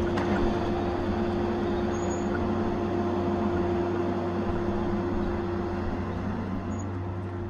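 Diesel engine of a Tigercat 870C feller buncher running at a steady speed, a constant hum with a fixed pitch.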